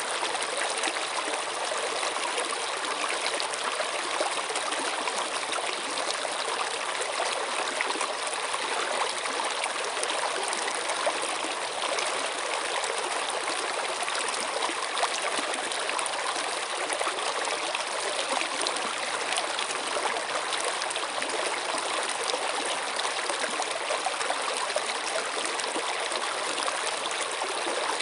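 A stream of water running and trickling steadily over stones, an even splashing rush with fine flickers of droplets.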